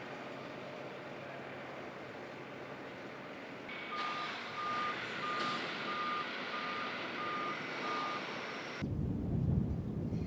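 A vehicle's reversing alarm beeping steadily about twice a second over the steady hum of a running engine, starting about four seconds in. Near the end the sound switches abruptly to wind buffeting the microphone.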